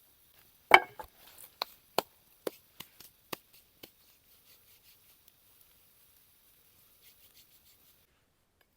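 Wood being chopped with a blade: one loud strike about a second in, then about eight quicker strikes that grow fainter, then faint light ticks.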